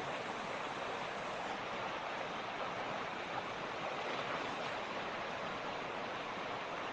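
Mountain creek flowing: a steady, even rush of water over stones.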